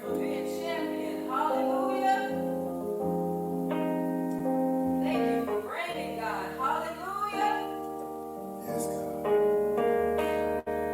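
Worship music: sustained keyboard chords that change every second or two, with a voice singing over them.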